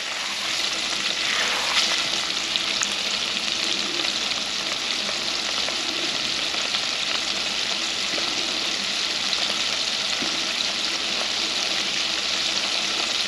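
Breaded shrimp deep-frying in hot oil: a steady sizzle. The shrimp are floating, near done and golden brown.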